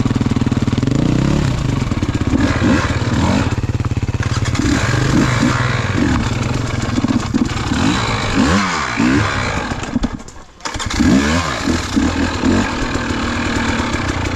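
KTM enduro dirt bike engine running on a woodland trail, the revs rising and falling again and again as the throttle is worked. About ten seconds in the engine sound drops away for a moment, then picks up again.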